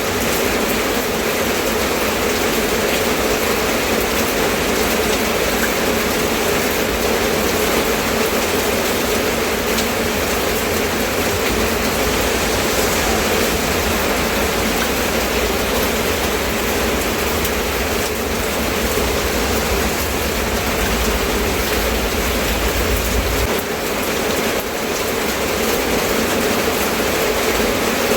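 Steady rain falling, an even hiss with no breaks. A low rumble runs underneath through the middle and stops abruptly about twenty-three seconds in.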